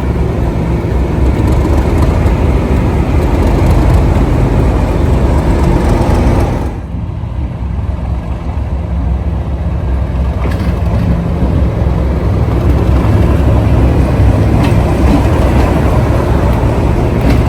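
English Electric 12CSVT V12 diesel engine of a Class 37 locomotive running, loud and steady with a deep throb. About seven seconds in the sound drops suddenly and goes duller, then builds back up.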